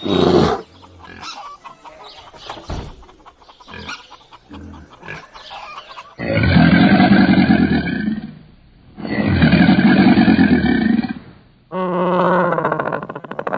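A run of animal calls from different animals. A loud call ends just after the start and is followed by a few quieter seconds of mixed sounds. Then come two long, loud calls of about two seconds each with a short gap between them, and a higher, pitched call near the end.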